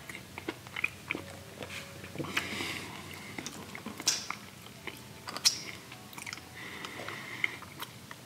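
A person chewing a mouthful of a fried chicken biscuit close to the microphone, with irregular wet mouth clicks and smacks. There is a sharp smack about four seconds in as he licks his fingers, and another, louder one about a second and a half later.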